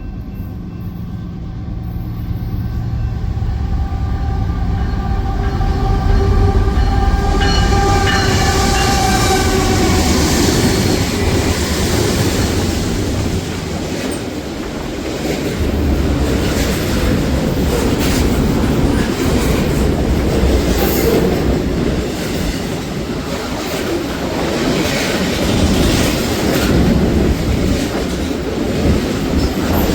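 A train passing close by. A sustained chord of steady tones, a train horn, grows louder and stops about a third of the way in. After that the rumble and clatter of the cars' wheels over the rail joints goes on steadily.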